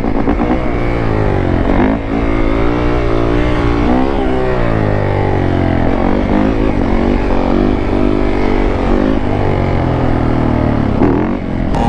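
Dirt bike engines revving up and down through the gears while riding, the engine pitch climbing and dropping several times.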